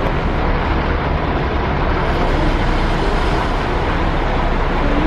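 Scania K400 double-decker coach running steadily, an even, low diesel rumble with no rise or fall in pitch.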